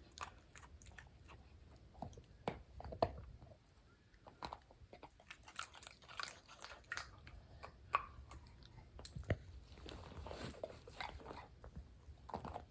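German Shorthaired Pointer puppy chewing a piece of ice cube, with faint, irregular crunches and clicks of teeth on ice.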